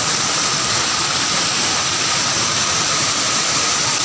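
Waterfall: water pouring over rocks in a steady, loud rush.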